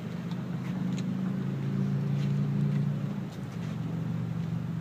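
An engine running with a steady low hum that shifts pitch a couple of times, about a second and a half in and again after three seconds.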